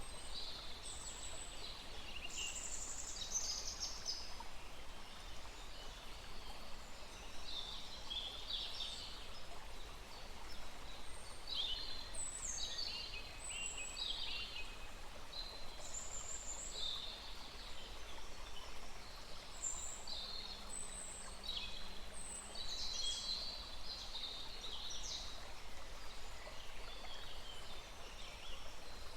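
Birds chirping and calling in many short, high phrases throughout, over the steady rush of a small forest stream.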